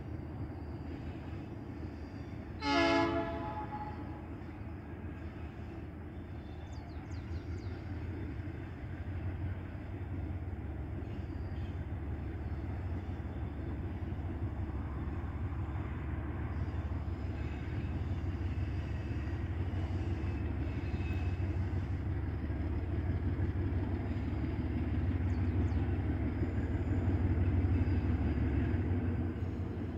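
Diesel freight locomotives approaching out of sight, a steady low engine rumble that slowly grows louder. One short horn blast sounds about three seconds in.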